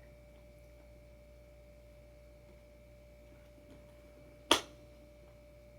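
A single sharp click about four and a half seconds in, over a faint steady hum.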